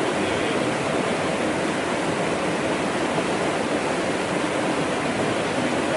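Stream water rushing steadily, an even unbroken noise of flowing water.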